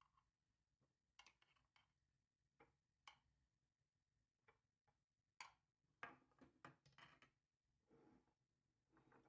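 Near silence broken by faint, scattered clicks and light taps, a little denser in the second half.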